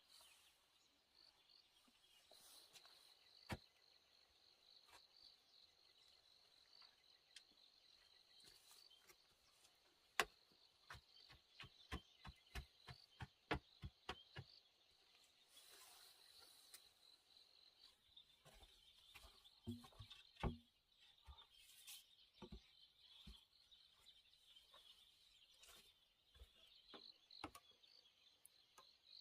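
Faint, steady high chirring of insects, with scattered light clicks and knocks from handling, a quick run of them about a third of the way in.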